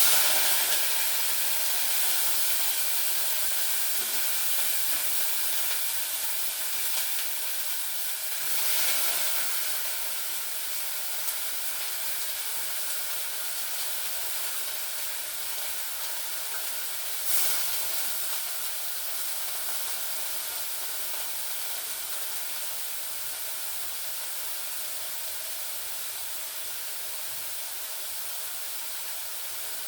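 Washed omena (silver cyprinid, tiny fish) sizzling loudly as they start frying in a hot pan. The hiss sets in all at once, fades slowly, and swells briefly twice, around nine and eighteen seconds in.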